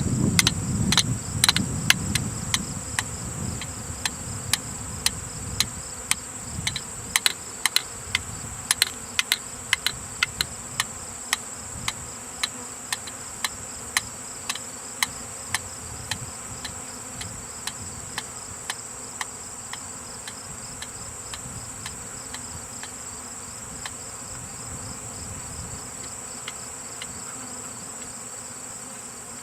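Honeybees from a freshly shaken swarm buzzing in the air, the low hum strongest at first and then fading, over a steady high insect trill. A run of sharp ticks, about one or two a second, thins out and stops about two-thirds of the way through.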